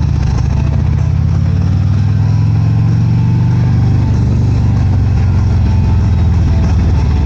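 Motorcycle engine running steadily, with its sound concentrated low and an even, fast firing pulse throughout.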